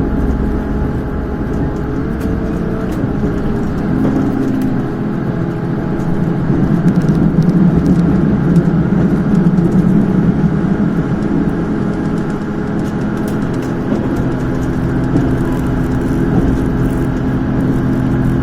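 Diesel engine of a KiHa 283 series express diesel railcar running under power, heard from inside the passenger car together with the train's running rumble. The engine note grows louder about six seconds in and eases back after about eleven seconds.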